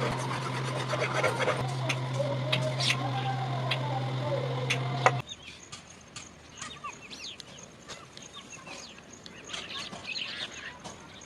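A power tool running with a steady hum and scraping clicks, which cuts off abruptly about five seconds in; after that, birds chirp.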